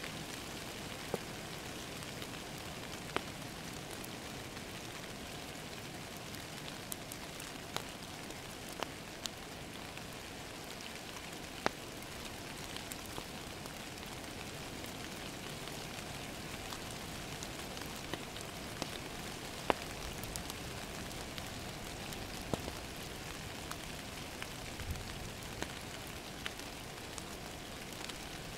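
Steady rain pattering against a window, with irregular sharp crackles and pops from a wood fire in a fireplace.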